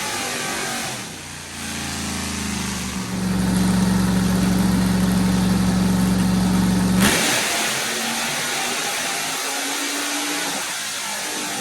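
Texas Speed 408 stroker V8 running, then held at a steady raised rpm for about four seconds before cutting off abruptly; a hiss follows.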